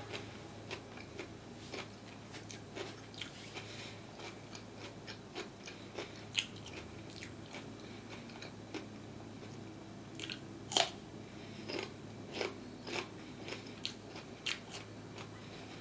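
A person chewing crisp food close to the microphone: irregular crunches and mouth clicks several times a second, with one louder, sharp crunch about eleven seconds in.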